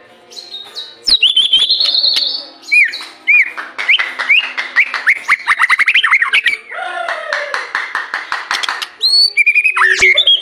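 White-rumped shama singing a loud, varied song of whistled phrases, starting quietly and then running into a fast series of repeated sweeping notes.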